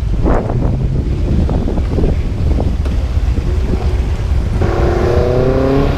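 Wind buffeting the microphone over a car engine running. About four and a half seconds in, a pitched hum with several overtones comes in and rises gently for over a second.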